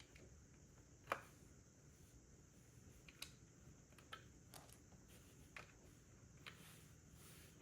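Plastic Lego bricks being handled and pressed together: faint, scattered clicks, about half a dozen, the loudest about a second in.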